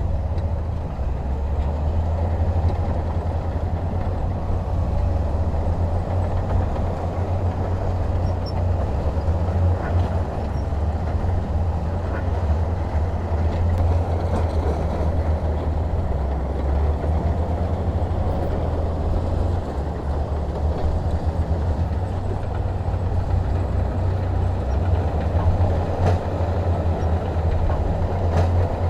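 Heavy diesel engine of earthmoving machinery running steadily, a deep even drone.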